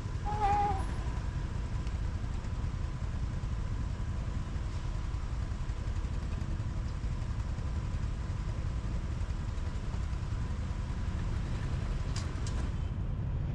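Motorbike riding in city traffic, heard from the rider's seat: a steady low rumble of engine and wind throughout, with a short pitched tone about half a second in.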